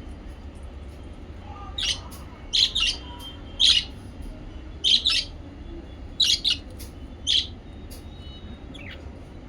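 Small pet parrots calling: a run of short, loud chirps, some in quick pairs, for several seconds before tailing off to a faint one near the end.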